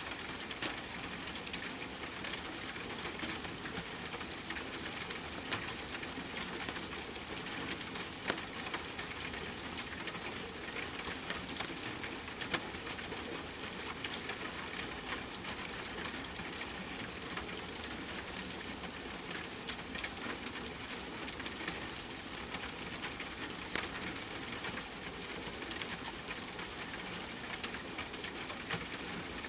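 Steady rain hissing, mixed with a wood fire crackling in small, irregular pops.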